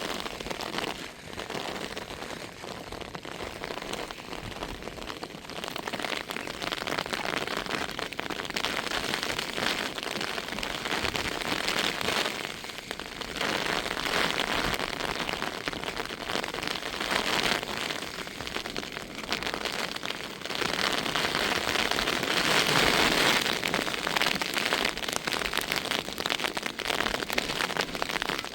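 Heavy rain falling on a surface: a dense, steady patter of drops that swells louder about three-quarters of the way through.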